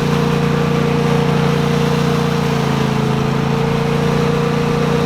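A steady mechanical drone, like a running motor or engine, holding an even level with a deep hum and a clear higher tone above it.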